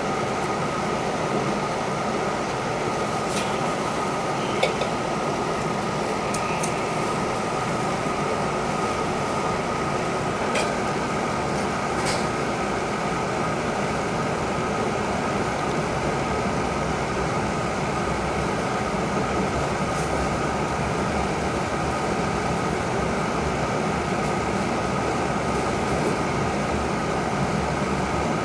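Steady noise of the Hamanasu night express, an old locomotive-hauled passenger train: a constant hum carrying one high steady tone, with a few sharp clicks in the first dozen seconds.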